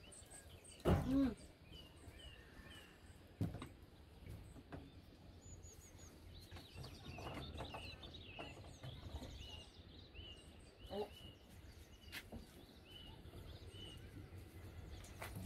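A small bird repeats a short high chirp about once a second, over faint outdoor background. A few knocks and clunks come in between, the loudest about a second in, as a plastic cassette-toilet tank is handled at a stainless-steel sink.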